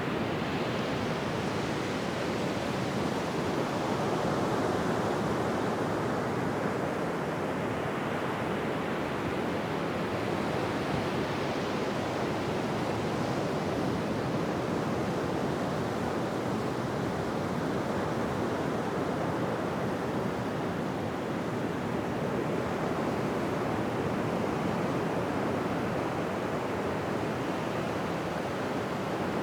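Ocean surf washing onto a beach: a steady rushing hiss that swells and brightens slowly as waves break, once near the start and again about a third of the way in.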